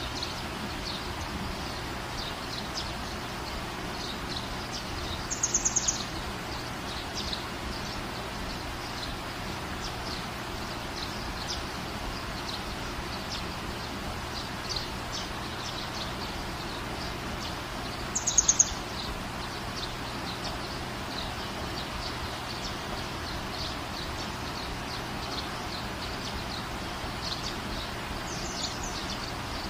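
Small birds chirping on and off over a steady background hiss of outdoor noise. A louder, rapid high trill rings out twice, about five seconds in and again around eighteen seconds, and a fainter one comes near the end.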